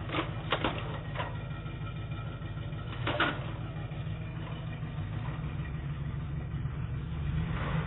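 A vehicle's engine and road noise running steadily, with a few short knocks or clicks, the most prominent about three seconds in.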